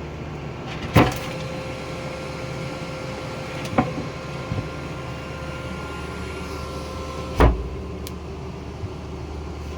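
Steady hum of a GPU mining rig's fans running inside a wood-and-foam sound chamber, with three sharp knocks, the first about a second in and the last near the end.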